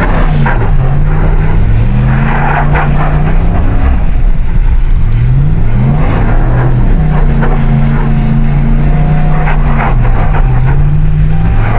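Ram 1500 pickup's engine revving up and down under load, its pitch dropping about a second in, climbing and falling again around the middle, and dipping once more near the end.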